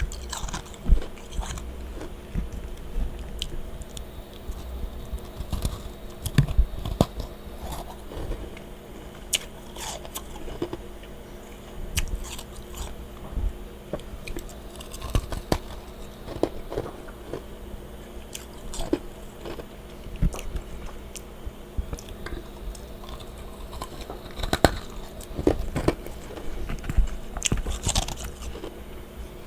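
A person biting and chewing freezer frost close to the microphone, with irregular crunches all through.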